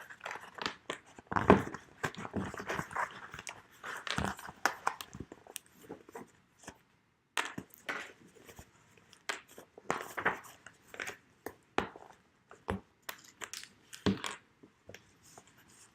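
Handling noise from an embroidered linen planner cover holding an A6 book: irregular rustling with light taps and clicks as it is turned and opened, pausing briefly about seven seconds in.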